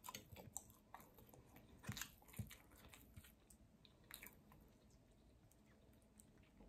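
Faint chewing and mouth sounds of a person eating, with a few short soft clicks spread through, a cluster near the start and others around two and four seconds in.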